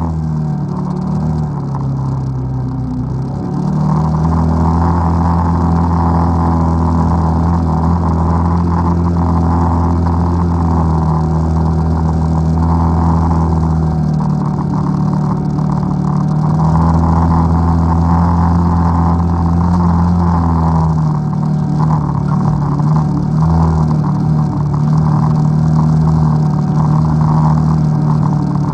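ATV engine running under way. Its pitch holds steady for long stretches, dips briefly a few times as the throttle eases and comes back, then rises and falls unevenly over the last several seconds.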